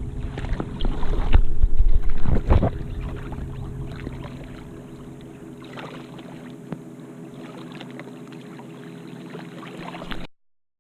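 Waterproof camera held underwater: muffled sloshing and rumbling, loudest over the first three seconds, then a quieter steady hum with scattered faint clicks.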